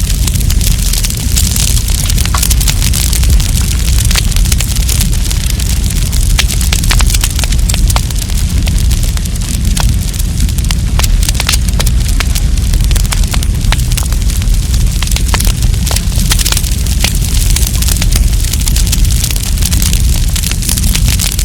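Wood campfire crackling, with many sharp pops and snaps scattered irregularly over a steady low rumble.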